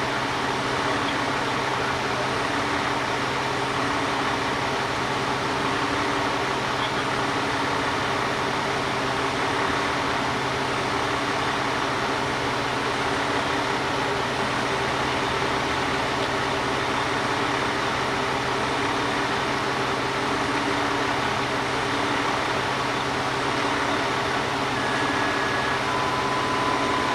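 Steady vehicle engine hum over an even background noise, with no distinct events.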